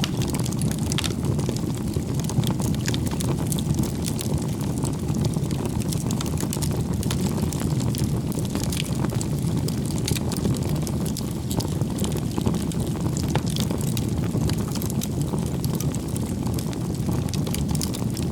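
Bonfire burning: a steady low rumble of flames with frequent small crackles and pops from the burning wood.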